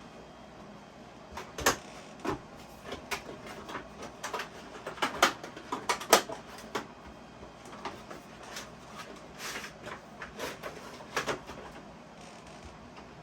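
Handling a Lionel model boxcar and its packaging: a run of irregular clicks, taps and short rustles, busiest in the first half.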